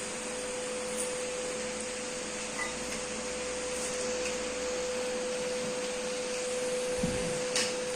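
Steady machine hum, like a running electric motor, with one constant tone held throughout and a few faint clicks.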